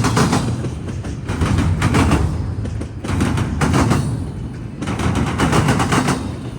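CSX intermodal freight train's wheels pounding over a railroad diamond crossing: quick clusters of loud metallic bangs as each car's wheel sets hit the crossing gaps, coming about every one and a half seconds over a steady rolling rumble.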